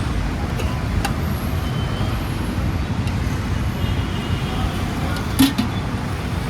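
Steady roadside traffic rumble, with one sharp knock a little over five seconds in.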